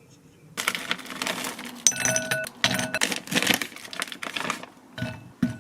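Kitchenware clattering and clinking: a run of knocks and scrapes, several leaving short ringing tones, starting about half a second in and stopping just before the end.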